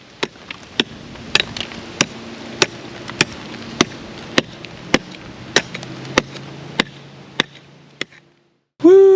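A steady series of sharp ticks, about one every 0.6 seconds, over a hiss. Near the end they give way to one loud pitched sound that rises and then falls in pitch.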